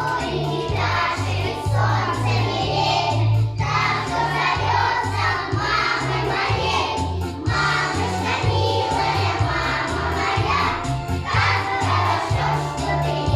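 A group of children singing a song over a recorded backing track with a steady, stepping bass line.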